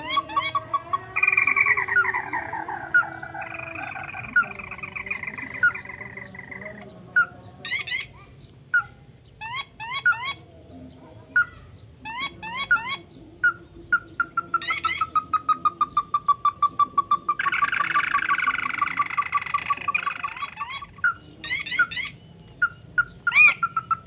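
Birds calling: long runs of quick, evenly repeated notes at one pitch, with bursts of fast, higher chirps over them and a stepping, falling call in the first few seconds.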